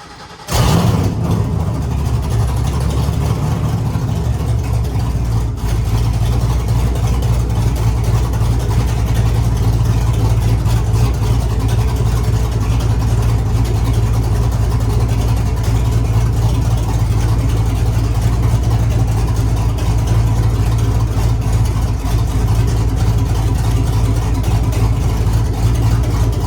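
Cammed 5.3 L LS V8 swapped into a Mazda RX-7, starting up about half a second in and then idling loud and raspy on open headers with no exhaust fitted. The idle settles after about five seconds.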